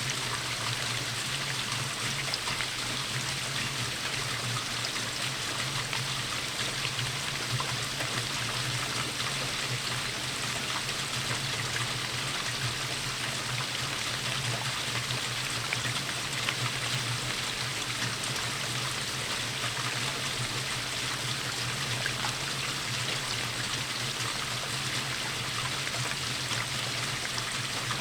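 Steady rainfall: an even hiss of falling water with faint scattered drop ticks, over a steady low hum.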